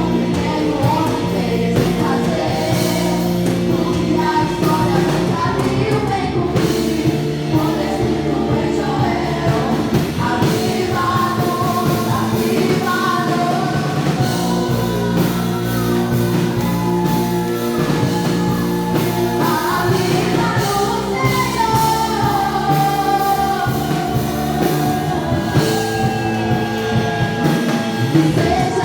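Gospel worship music with a band: a sung melody over bass and regular drum beats.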